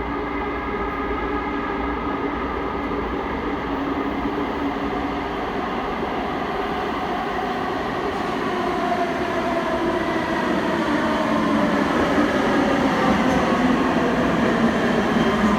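O-Train Line 1 Alstom Citadis Spirit light rail train running, a steady rumble with a motor whine whose tones slide down in pitch over the last several seconds as it slows, arriving at the station.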